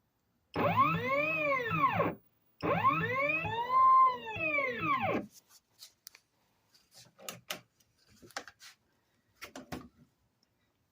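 Stepper motors of a Piranha FX CNC machine whining as the router gantry jogs out of the way: two moves, each rising then falling in pitch as the axis speeds up and slows down. A few faint clicks follow.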